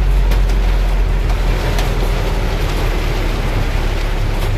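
Heavy rain falling, a steady hiss with scattered drops ticking, over the low steady rumble of a vehicle engine.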